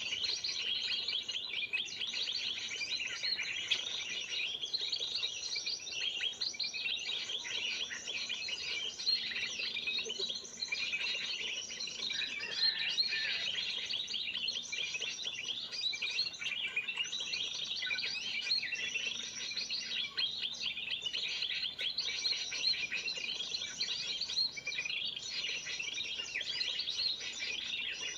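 A dense chorus of small birds chirping and twittering over one another without pause. It is a bird-trapping lure call of the 'noisy birds' kind, used to draw in birds such as spiderhunters.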